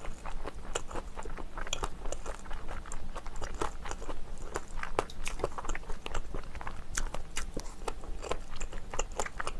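Close-miked chewing of food: many small, irregular wet mouth clicks and light crunches.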